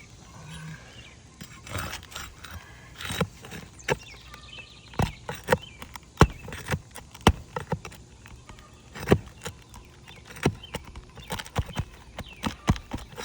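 Irregular sharp knocks and taps of a tool prying old nails out from under brittle roof shingles.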